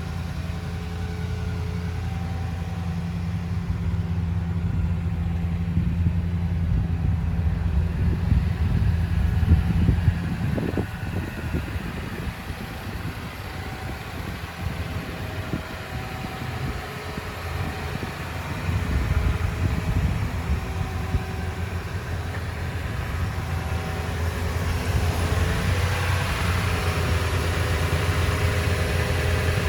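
A 2017 Toyota Tundra's 5.7-litre V8 idling steadily, a continuous low hum.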